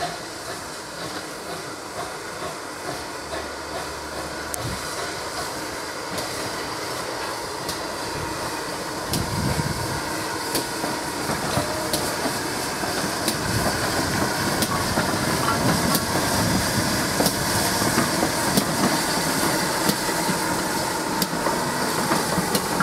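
A train running on the line, a steady rumble and hiss that grows louder. Wheels clack over rail joints in a regular rhythm about every one and a half seconds, growing more distinct from about halfway through.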